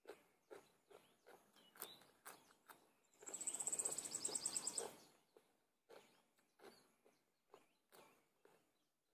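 Close, crisp chewing of raw cucumber slices, about two crunches a second. For a couple of seconds in the middle a louder, rapid, high trilling bird call rises over the chewing.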